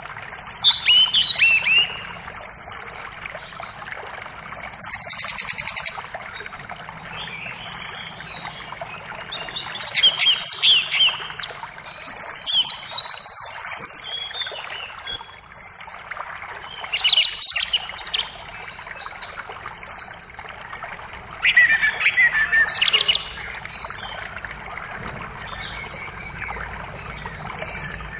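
Birds singing over the steady rush of a forest creek. One bird repeats a short high note every second or two, others break in with quick warbling phrases, and a rapid buzzy trill sounds about five seconds in.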